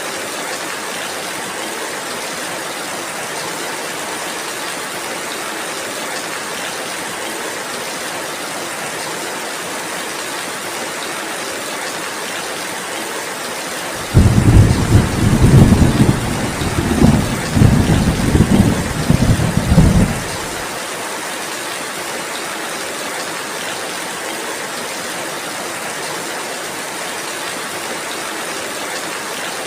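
Steady rainfall, with a loud, low rumble of thunder that breaks in suddenly about halfway through and rolls in waves for about six seconds before the rain alone goes on.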